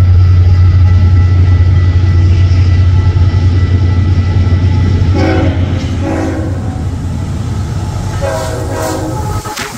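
A train going by with a loud, steady low rumble that eases off about five seconds in. The locomotive horn sounds two short blasts, then a longer one near the end.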